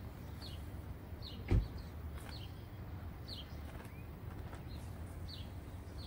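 A small bird chirping repeatedly, short falling chirps about once a second, with one dull thump about a second and a half in.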